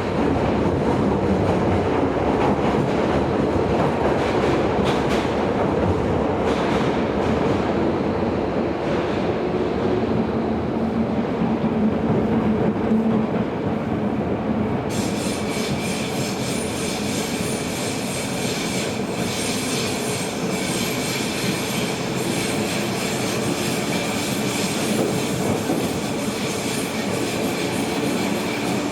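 Tobu 70000 series electric train heard from inside the car while running in the Hibiya Line's subway tunnel: steady rumble of wheels on rail, with some wheel squeal. About halfway through, a high-pitched whine joins in and the overall sound drops slightly.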